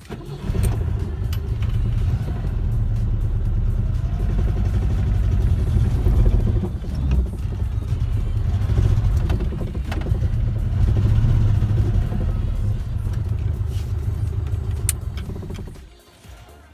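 IZH Moskvich-412's four-cylinder petrol engine idling steadily at a slightly raised idle, freshly started on the first turn, with new spark plugs and a clean carburettor.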